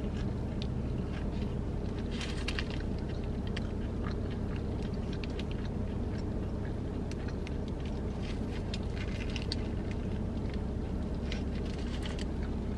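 Close-up chewing of a mouthful of chicken pita, with scattered small clicks and crinkles from its paper wrap, over a steady low hum.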